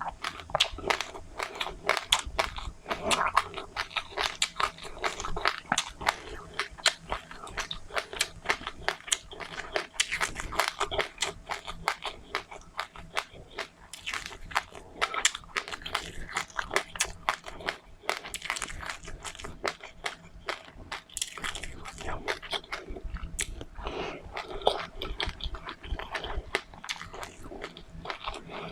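Close-up chewing of crunchy seeds: a dense, irregular stream of sharp crunches and clicks.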